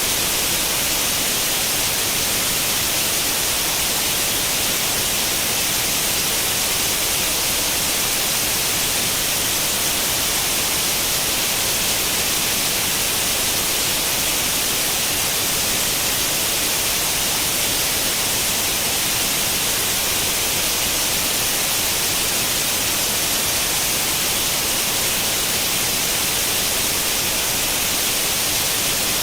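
Steady white noise like the static of an untuned analogue tube television: an even, unbroken hiss, brightest in the high end, with no change.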